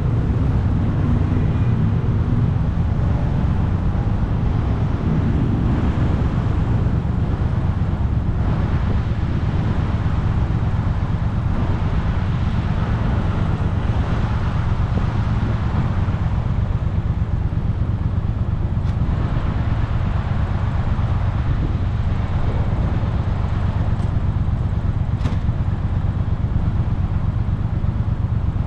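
Motorcycle engine running steadily, heard from on the bike, with an even low hum and a haze of road and wind noise over it.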